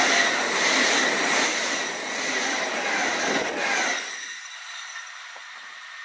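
SBB ETR 610 high-speed electric train passing close at speed: a loud rush of wheel and air noise with a steady whine. It cuts off sharply about four seconds in as the last car goes by, leaving the faint fading sound of the departing train.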